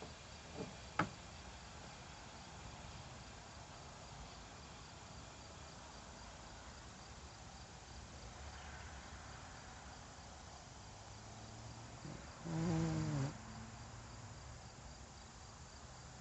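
Faint outdoor ambience with insects chirping steadily. There are two sharp clicks about a second in, and a short, low pitched call with a falling tone about twelve seconds in, which is the loudest sound.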